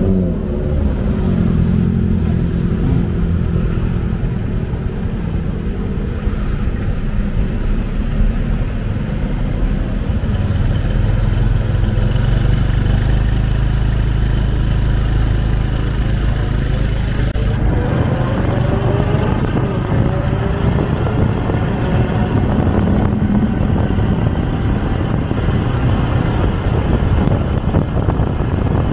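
Motorcycle taxi's engine running on the move, under a low rumble of wind and traffic. The engine note holds steady for a while, then a little past halfway it changes and climbs in pitch as the bike speeds up.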